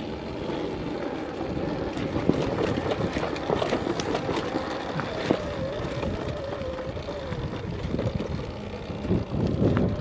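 Arctic Leopard XE Pro electric dirt bike riding a dirt trail: a motor whine that wavers in pitch with speed, over tyre and ground noise, with scattered knocks.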